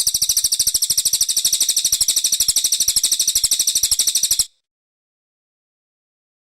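Cililin songbird singing a fast, steady, very high-pitched trill of rapidly repeated notes that lasts about four and a half seconds and then cuts off suddenly.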